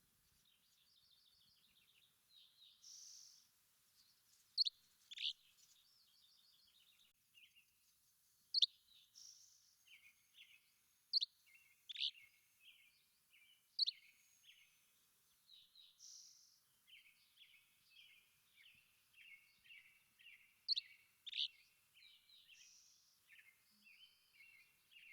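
Several songbirds singing at once. Loud, sharp notes sweep sharply down in pitch, often in pairs, a few seconds apart, while shorter buzzy calls and quick runs of chirps repeat steadily between them.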